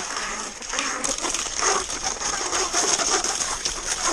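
Skis sliding and scraping over snow: a steady hiss with irregular scratchy crackles.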